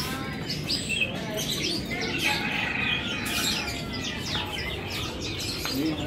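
Many caged birds chirping and trilling at once, a dense chorus of short overlapping calls.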